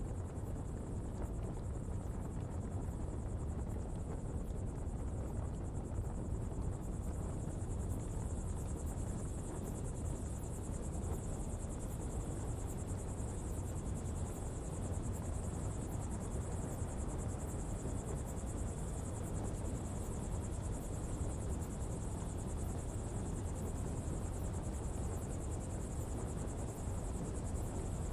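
Coal-fuelled pottery fire burning with a steady low rumble, with no distinct crackles or pops.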